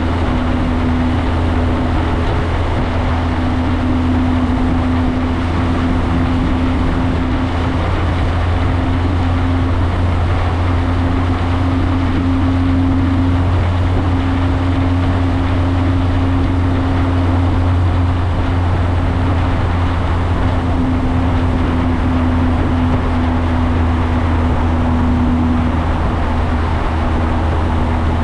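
Motorcycle engine running at a steady cruising speed, its low hum holding an even pitch throughout, over a steady rush of wind and road noise.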